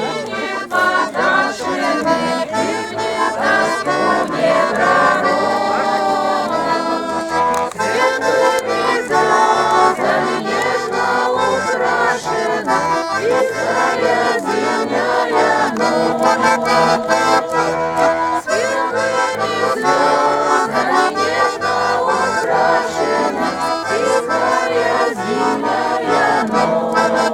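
Accordion playing a traditional folk tune, performed live by a small ensemble.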